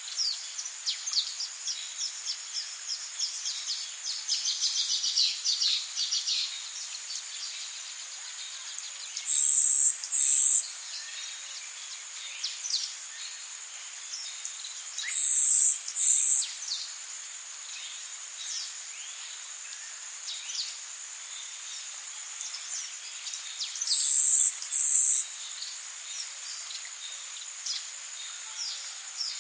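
Tropical rainforest ambience: a steady high insect drone under a quick run of falling bird chirps in the first several seconds. Three times, spaced about six to nine seconds apart, a loud high buzz comes in a pair of short pulses.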